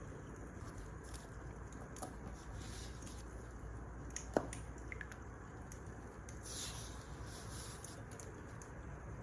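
Wood fire burning with a steady low rush and scattered soft crackles, and one sharp pop about four seconds in.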